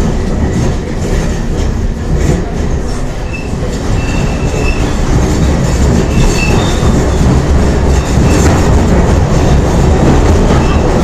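London Underground C stock train running, heard from inside the carriage: a steady low rumble of wheels and motors with clicking over the rail joints. A few short, high wheel squeals come between about three and seven seconds in, and the sound grows a little louder toward the end.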